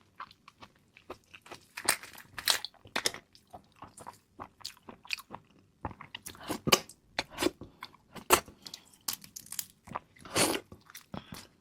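Close-miked crunching and chewing of a black tiger prawn, with irregular sharp crackles of shell breaking between the bites.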